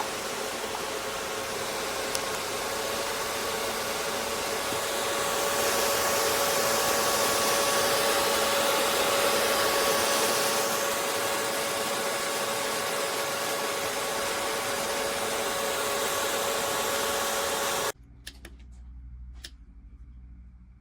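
Small brushless-motor fan of an air-conditioned work jacket's fan unit running at speed: a steady airy whoosh with a steady hum in it. It gets louder about five seconds in and cuts off suddenly near the end, leaving a faint low hum and a few clicks.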